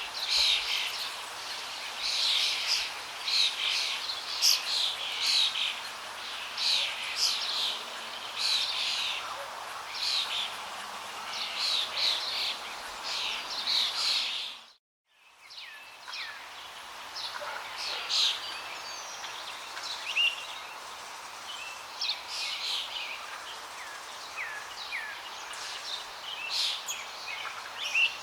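Many birds chirping and calling in quick short phrases over a steady hiss of flowing water. About halfway through, everything fades out to silence for a moment and fades back in, after which the birdsong is sparser.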